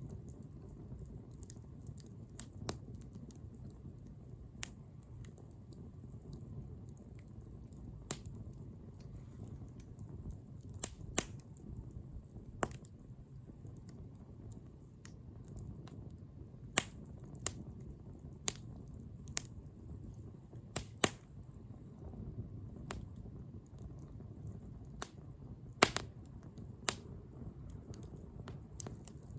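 Wood fire crackling: a soft low rumble of the flames with irregular sharp pops and snaps of burning wood, one louder snap near the end.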